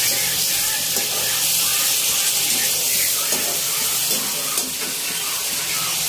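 Paneer cubes frying in hot oil in a steel kadhai, a steady sizzle, while a spatula stirs them.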